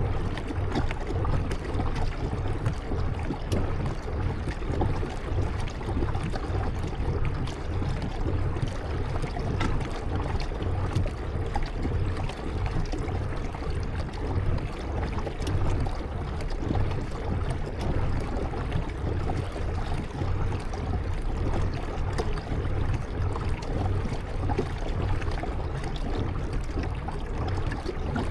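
Kayak paddling on a river: water splashing and trickling off the paddle blades, with many small drips and a steady low rumble underneath.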